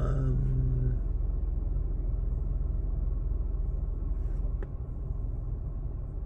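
Nissan Micra K14 engine idling steadily, a low even rumble. A single sharp click about four and a half seconds in.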